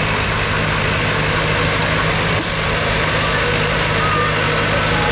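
Semi truck's diesel engine idling steadily, with a brief hiss of released air about two and a half seconds in.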